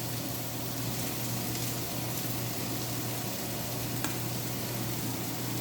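Chicken kurma curry with coconut milk simmering and sizzling steadily in a pot on the stove, with one faint click about four seconds in.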